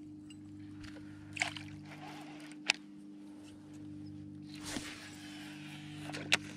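Water splashing and sloshing against a fishing kayak, with a couple of sharp clicks, over a steady low hum.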